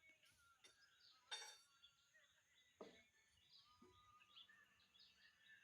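Near silence: faint small birds chirping in the background, with two light clicks or knocks, one about a second and a half in and another about three seconds in.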